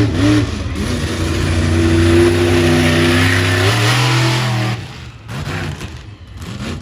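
Monster truck's supercharged V8 engine running loud and steady at high revs, its pitch stepping up briefly before it drops off nearly five seconds in.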